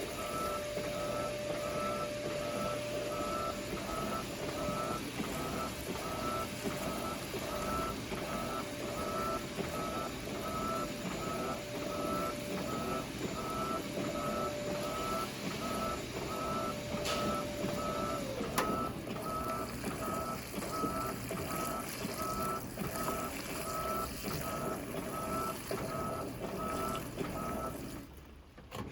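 Electrolux washing machine beeping repeatedly, a little more than once a second, over the steady noise of the machine running. A steady whine under the beeps drops in pitch and stops about two-thirds of the way through, and the machine noise cuts out near the end.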